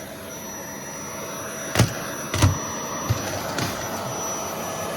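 Household vacuum cleaner running steadily with a faint whine, with a couple of sharp knocks about two seconds in as the nozzle bumps against things.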